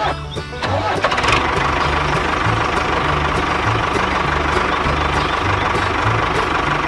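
A vehicle engine running steadily, with a thin steady whine through it, over changing low bass notes.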